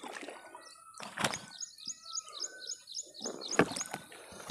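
A small bird chirping in quick repeated high notes, about four a second, through the second half. Over it come a few sharp knocks; the loudest falls about three and a half seconds in.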